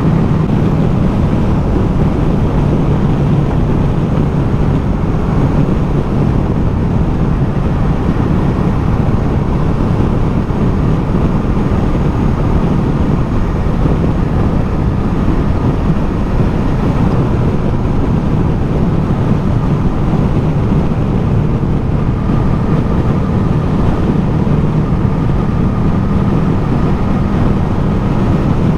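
Ducati Multistrada motorcycle engine running at a steady cruise under heavy wind rush on the rider's microphone, with no gear changes or sudden events.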